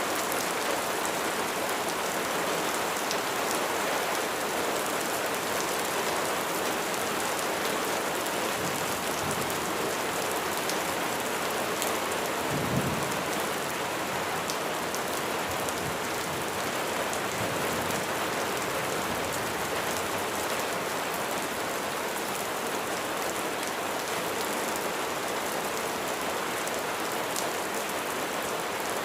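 Steady heavy rain falling on surfaces, a dense even hiss, with a brief low thump about halfway through.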